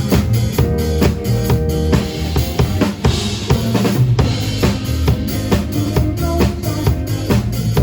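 Live band playing an instrumental passage: a drum kit keeps a steady beat with kick, snare and rimshots under bass and other pitched instruments, with no singing. A brighter, hissing swell comes about three seconds in.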